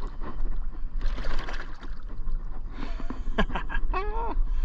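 Water splashing and rustling as a hooked bass is fought beside the kayak, over low wind rumble on the microphone; about three seconds in, a man gives two short wordless exclamations.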